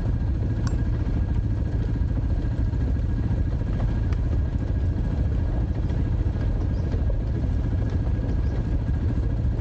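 Dirt bike engine running steadily, a dense low-pitched drone with a faint steady whine above it.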